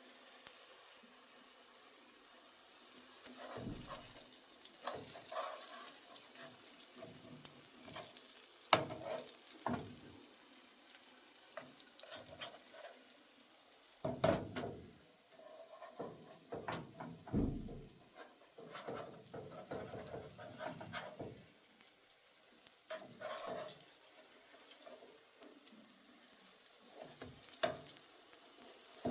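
Cooking in a pan: a utensil stirring and scraping with irregular knocks and clinks, over food sizzling faintly.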